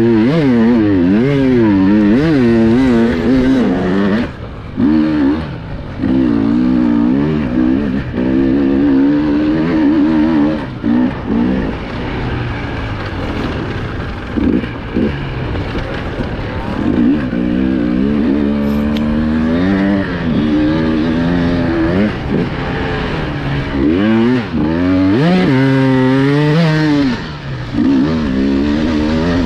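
Small high-revving motors, their pitch swinging up and down quickly with constant throttle changes. There are brief dips between bursts, and a sharper climb in pitch about 25 to 27 seconds in.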